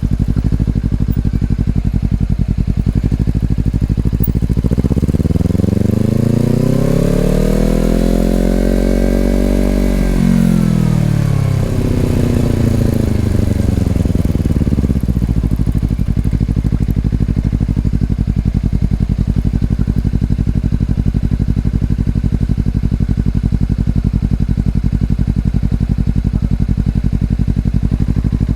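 Honda CBR250RR parallel-twin through an Over Racing aftermarket exhaust, running at a steady low engine speed. A few seconds in, the revs climb smoothly for about five seconds, then fall back over the next five to a steady note again.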